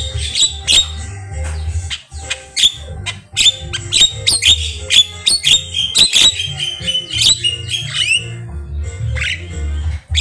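Javan myna singing a rapid, varied string of sharp whistles, clicks and harsh squawks, with a brief pause about eight seconds in and a low hum beneath.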